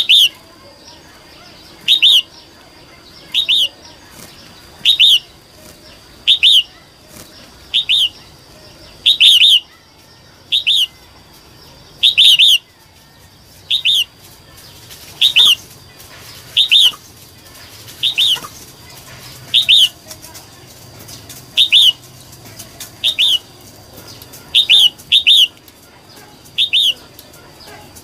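Red-whiskered bulbul, a female, calling: one short, sharp chirp repeated about every second and a half, now and then two in quick succession. A faint steady high tone runs underneath.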